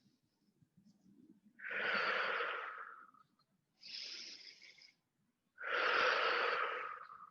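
A person breathing slowly and audibly close to the microphone during tai chi practice: three long breaths, the middle one shorter and hissier. This is deep, paced breathing timed to slow movements.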